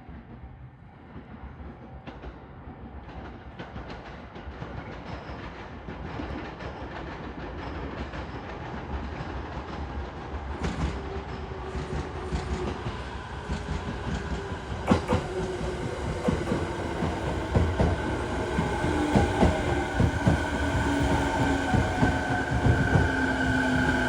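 JR East 209 series 2100 electric train pulling into the platform, growing steadily louder, with the clack of wheels over rail joints quickening into a run of clicks. In the second half its traction motors give a whine that falls in pitch as the train slows.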